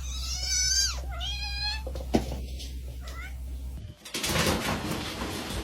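A domestic cat meowing twice, two long drawn-out calls that fall in pitch, followed by a sharp click. About four seconds in, the sound cuts to a loud rushing noise.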